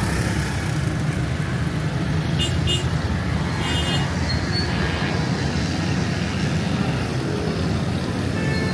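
Steady road-traffic rumble from passing cars and motorbikes, with short vehicle horn toots: two quick ones about two and a half seconds in and another near four seconds.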